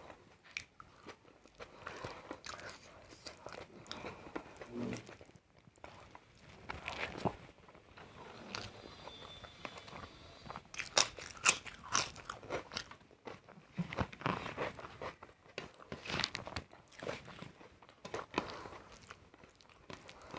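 A person eating close to the microphone: crisp bites and crunchy chewing in clusters, with softer chewing between.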